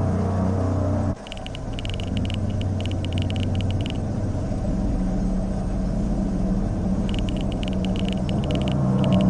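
A steady low rumbling drone from a dark ambient sound bed, which drops and changes suddenly about a second in. Two runs of rapid, even, high-pitched ticks sound over it, the first lasting about three seconds and the second starting about seven seconds in.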